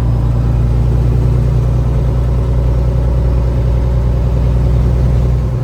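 Peterbilt 379 semi truck's diesel engine running steadily while driving, a deep unchanging drone.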